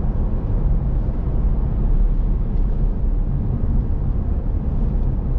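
Steady engine and tyre noise from a vehicle driving at road speed, heard from inside the cabin: a deep, even noise with no breaks.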